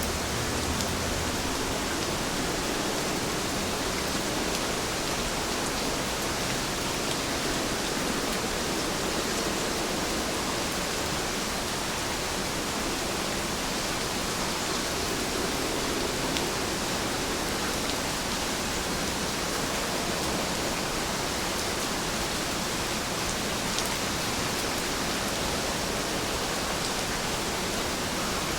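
Steady rain falling, an even hiss with a few faint drop ticks and no change in level.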